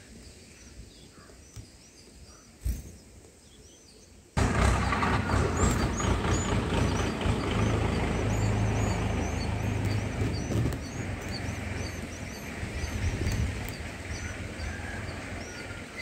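Small birds chirping: a run of short, high, rising chirps, several a second, faint at first, then over a steady hiss and low rumble of background noise that comes in abruptly about four seconds in.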